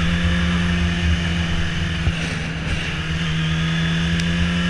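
Motorcycle engine running at a steady road speed, one even engine note, with wind rushing over the rider's microphone.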